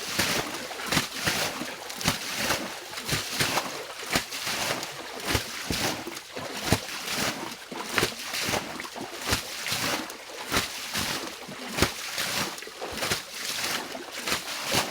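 Water splashing and sloshing over and over in quick, irregular strokes, about one or two a second, as water is worked or bailed by hand.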